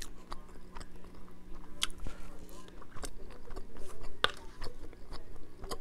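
Close-miked chewing of fried rice: wet mouth clicks and smacks, with two sharper clicks about 2 and 4 seconds in.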